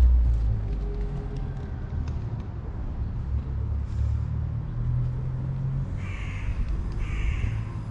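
Two short, high-pitched animal calls, each about half a second long and about a second apart, near the end. Under them runs a steady low rumble.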